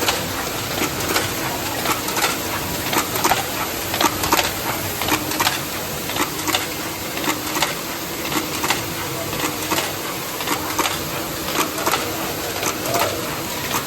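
Automatic can body welding machine running at production speed: a steady mechanical hum with repeated sharp clacks, about one a second or more often.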